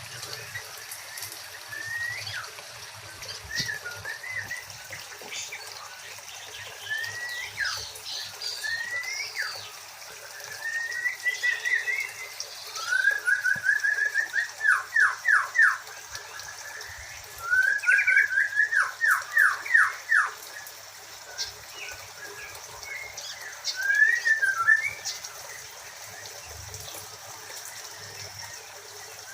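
Songbirds calling: short rising whistled notes, with two fast runs of sweeping notes about halfway through.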